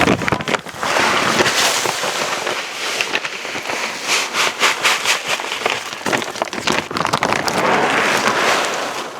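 Chicken feed pouring from a bag into a feeder: a dense, continuous rattling hiss of pellets or grain.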